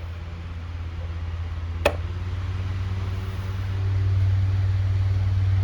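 Rowenta Turbo Silence Extreme table fan spinning up to its turbo boost speed: the rush of air and low motor hum grow louder over a few seconds, then run steady. A sharp click about two seconds in.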